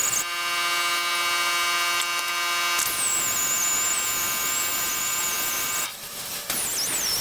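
Electric power grinder running, dressing down a TIG weld in a cast iron handle. Its high whine wavers as the tool is worked against the metal, easing off briefly about six seconds in.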